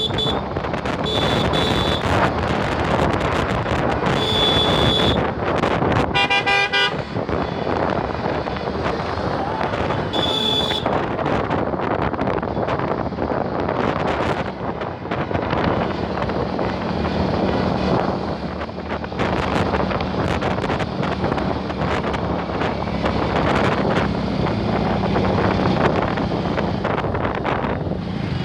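Road traffic heard while riding, with steady rushing road and wind noise. Several short horn toots sound in the first eleven seconds, one of them a deeper, fuller horn about six seconds in. A steady engine hum comes in from about sixteen seconds.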